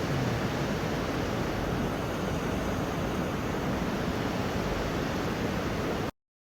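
Steady rush of water, like a fast mountain stream, that cuts off suddenly about six seconds in.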